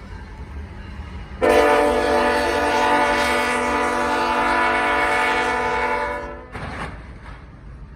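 Loud multi-tone air horn sounding one long blast of about five seconds, starting about a second and a half in, over a steady low engine rumble.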